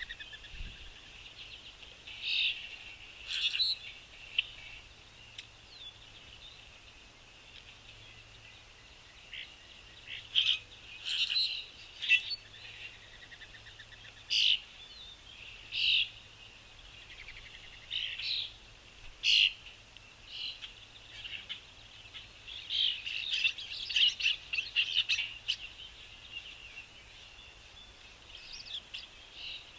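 Small songbirds chirping: short, separate high calls come every second or two, crowding into a quick flurry of chirps about three quarters of the way through, over a faint continuous twitter of more distant birds.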